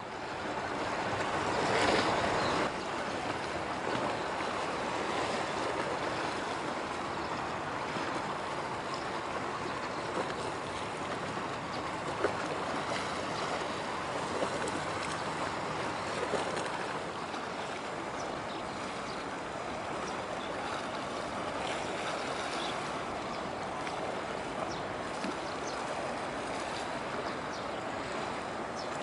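Steady rushing of wind and water, swelling over the first couple of seconds and then holding even, with a few faint clicks and no clear engine tone.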